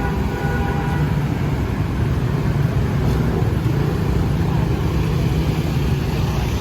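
Steady low rumble of motor vehicles running, with no sudden events.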